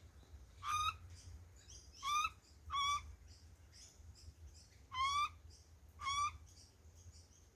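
A butcherbird gives five short, clear calls, each rising in pitch, spaced irregularly a second or two apart.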